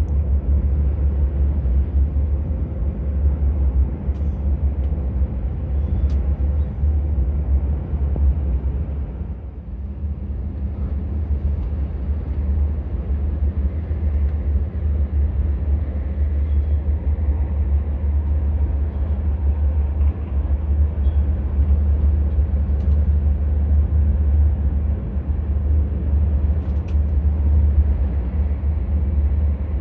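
Omnéo Premium double-deck electric train running between stations: a loud, steady low rumble that dips briefly about ten seconds in.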